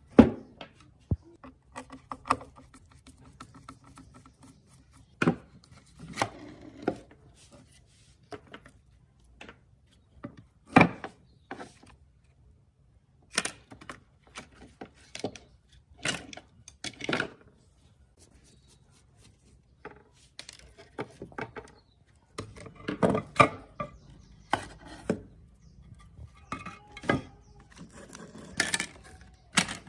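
Irregular knocks, clicks and clatter of hard objects being handled and set down, like tools and parts during workbench work.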